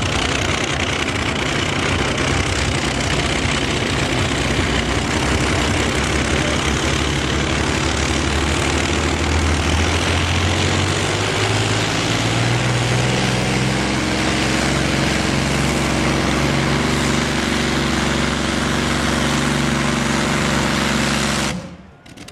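Pulling tractor's engine running hard under load, a dense, loud noise whose pitch climbs steadily about ten seconds in and then holds; it stops abruptly near the end.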